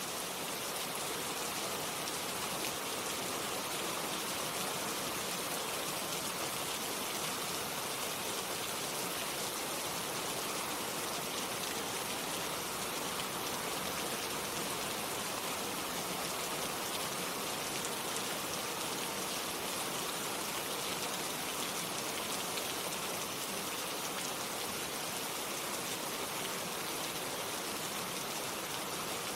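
Steady rain falling, a continuous even hiss with a fine patter of drops.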